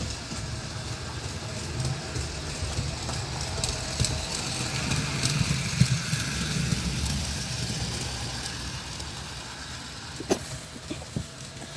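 O-scale electric model train running on its track: a steady rumble of motor and wheels, swelling a little in the middle, with a few sharp clicks near the end.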